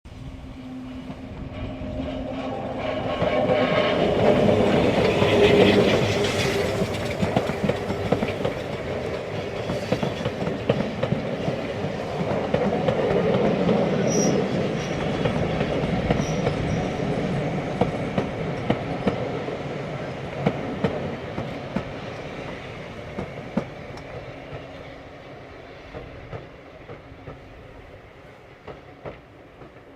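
A steam-hauled heritage train running past, its wheels clattering over the rail joints. It swells to its loudest about five seconds in, then slowly fades as it draws away.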